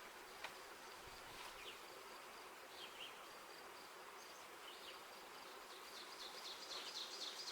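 Faint, steady buzzing of a freshly hived honey bee swarm, the bees fanning and putting out pheromone to call the rest of the swarm in. A run of short high chirps comes near the end.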